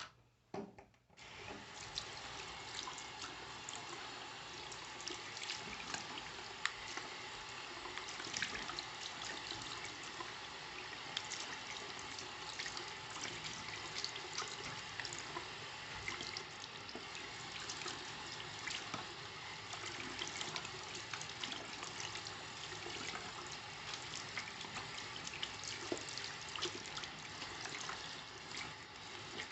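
Water running from a tap and splashing, starting about a second in after a couple of clicks.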